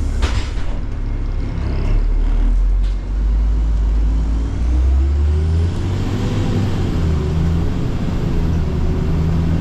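City bus running, heard from inside the cabin: a steady deep engine and road rumble, with a whine that rises and falls about six seconds in as the bus changes speed. A short sharp noise comes right at the start.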